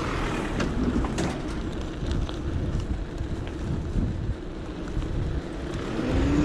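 Wind buffeting the action camera's microphone over the rumble of an electric bike's tyres on the road, with scattered small clicks. A rising hum starts near the end.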